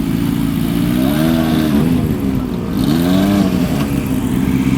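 Motorcycle engine running at idle and blipped twice, the revs rising and falling about a second in and again about two and a half seconds in, then settling back to a steady idle.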